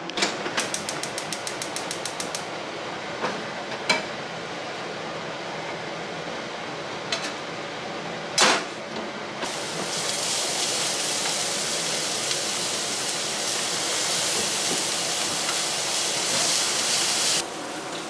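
Gas stove igniter clicking rapidly for about two seconds, a few knocks, then minced onion and garlic sizzling as they fry in oil in a frying pan, starting about nine seconds in and cutting off near the end.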